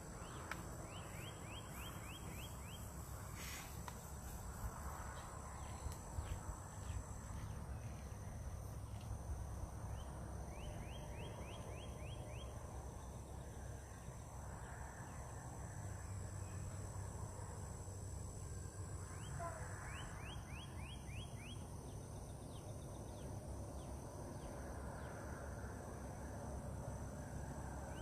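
A bird gives a quick run of about six rising notes, repeated three times roughly nine seconds apart, with a few single chirps in between. Under it runs a steady low rumble and a constant high thin whine.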